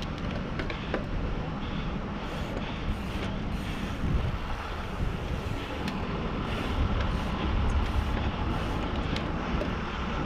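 Wind buffeting the microphone, a steady rumbling rush with a few light clicks.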